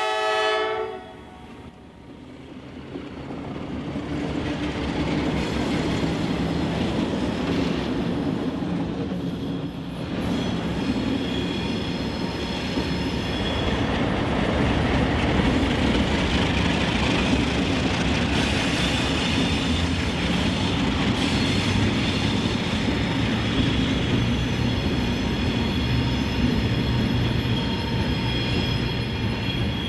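A train horn cuts off about a second in. Then Alco C420 diesel locomotives and rail cars rumble closer and pass by, with thin, high wheel squeal on the rails from about ten seconds in.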